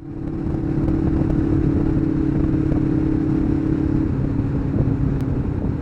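Kawasaki GPZ500S parallel-twin engine running at a steady cruise, heard from the rider's helmet with a constant rumble of wind and road noise. The engine note drops slightly about four seconds in.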